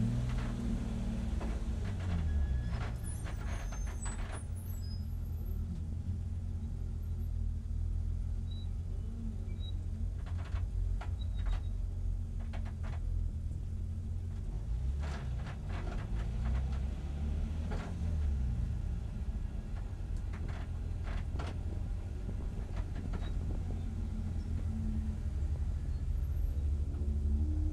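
BMW E30 race car's engine idling, heard from inside the stripped cabin as the car creeps forward at walking pace. The engine drops back from a brief rev to idle in the first second, scattered clicks and rattles come through the car, and the revs rise again right at the end.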